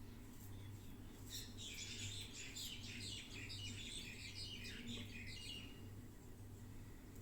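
A small bird twittering in a quick run of high chirps for about four seconds, over a steady low electrical hum.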